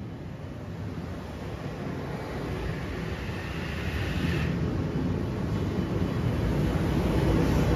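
Kawasaki M8 electric multiple-unit train rolling past at close range, its wheels and running gear rumbling steadily and growing louder. A faint high squeal comes in for a moment about three to four seconds in.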